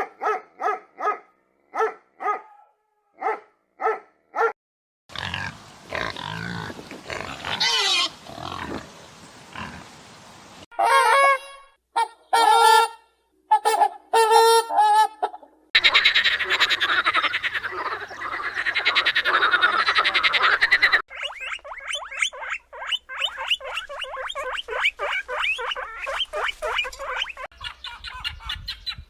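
A run of different animal calls in short cuts. First come short calls repeated about twice a second, then longer calls. From about the middle, dense fast-pulsing choruses take over, like frogs croaking and trilling.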